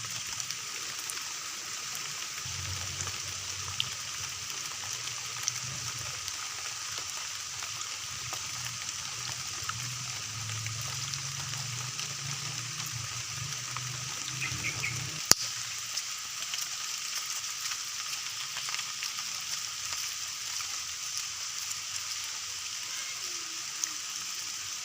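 Steady hiss of rain falling, with a low hum under it from about two seconds in until about halfway, and a sharp click about fifteen seconds in.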